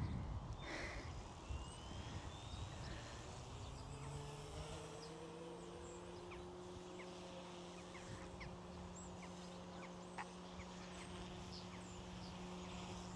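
Faint whine of a small electric RC helicopter's motor and rotor, rising in pitch about four seconds in and then holding a steady speed. Short bird chirps are scattered over it.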